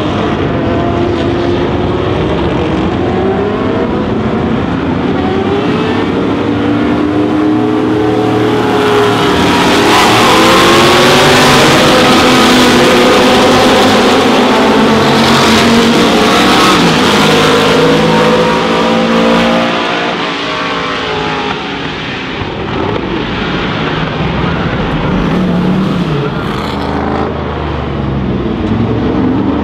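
Engines of classic Can-Am sports racing cars going by at speed, revving up and down through the gears. Several passes overlap, and the sound is loudest about halfway through, then drops off and builds again near the end.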